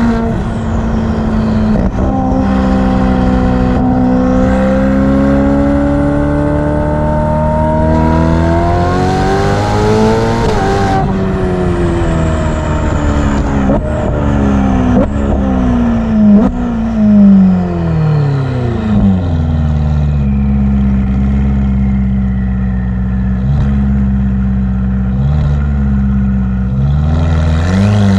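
Ferrari F8's twin-turbo V8 through a Novitec exhaust, pulling hard with its pitch rising steadily for several seconds, then falling through downshifts with a few short, sharp blips of revs. It then runs at a steady low drone and begins to rise again near the end.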